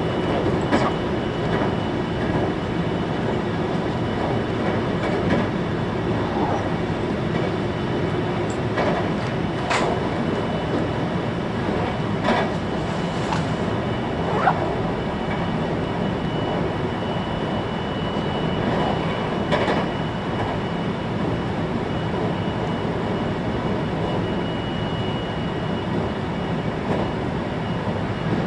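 Running noise of a 521 series electric multiple unit heard inside the carriage: a steady rumble of wheels on rail with a faint high steady whine. A few sharp clicks come at irregular intervals.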